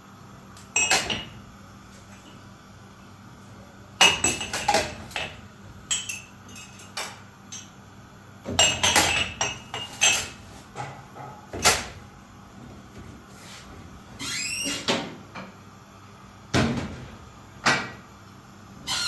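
Intermittent knocks and clatter of hard household objects being handled, with a short squeak about fourteen seconds in.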